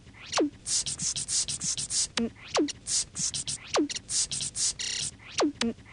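Electronically edited cut-up loop: rapid short hissing bursts, several a second, with a sound sweeping steeply down in pitch about once a second, and a short buzz near the end.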